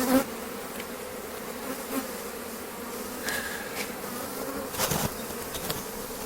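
Honeybees buzzing in a steady hum from a very strong colony in an opened hive. A couple of short knocks come at the start and about five seconds in.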